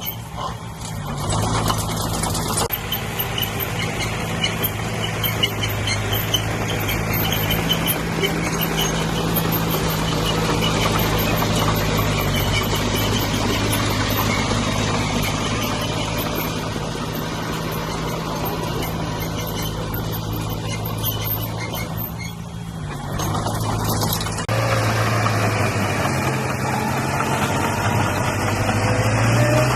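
Diesel engine of a D20P crawler bulldozer running steadily under working load while pushing soil, its note shifting as the load changes and rising near the end.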